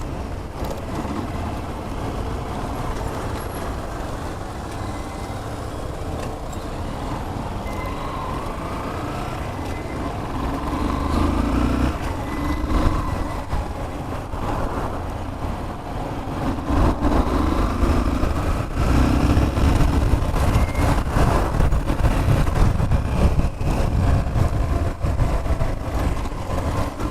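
Motorcycle riding noise: a steady low engine rumble mixed with road and wind noise, getting louder about two-thirds of the way through.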